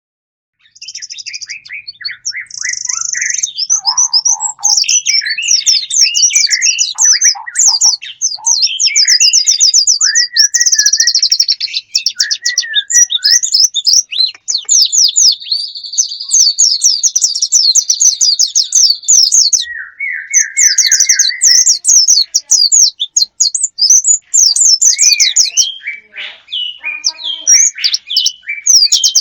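Songbird lure call ('pikat') for drawing in wild birds: loud, varied bird song with rapid high trills and chirps and some lower whistled phrases, starting about a second in. A long, even buzzing trill runs for about five seconds in the middle.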